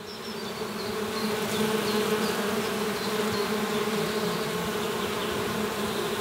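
A swarm of honeybees buzzing: a steady, even drone that swells in during the first second.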